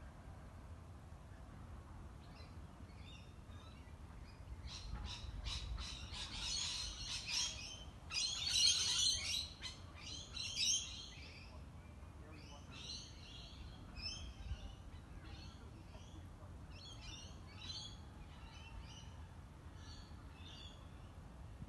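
Birds calling and chattering: a quick run of sharp notes about five seconds in, then the loudest burst of squawky chatter a few seconds later, followed by scattered shorter calls.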